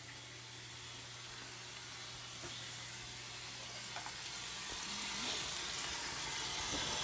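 Steady hiss of rushing water in a top-load impeller washing machine, growing gradually louder. A low hum underneath stops about two-thirds of the way through, and there are a few faint clicks.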